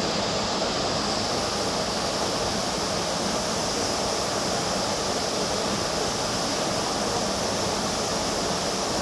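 Tropical waterfall: a steady rush of falling water, with a faint high short note repeating about once a second.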